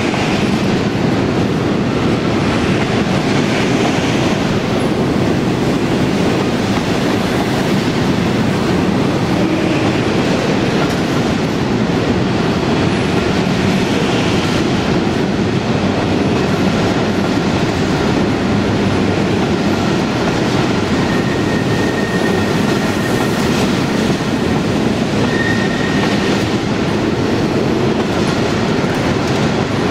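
Long freight train of covered wagons rolling steadily past, with a continuous wheel rumble and clatter over the rail joints. A couple of brief, high wheel squeals come in the second half.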